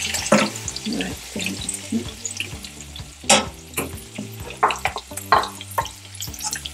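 Pork chops and onions frying in oil in a non-stick pan, sizzling as crushed tomato is spooned in. A wooden spatula scrapes and taps against the bowl and pan, with the sharpest scrape a little over three seconds in.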